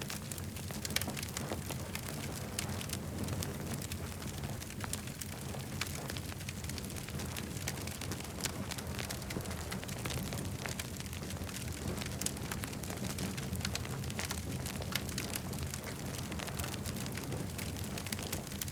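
Campfire crackling, with many small sharp pops and snaps coming irregularly throughout over a steady low rumble.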